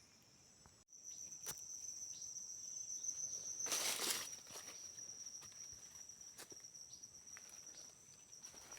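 Insects buzzing in the forest, one steady high-pitched drone that starts suddenly about a second in, with a brief loud rustle about four seconds in.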